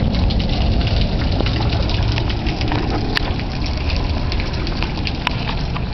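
Heavy thunderstorm rain pouring down steadily, with many sharp drop hits close by and a few louder ones about three and five seconds in.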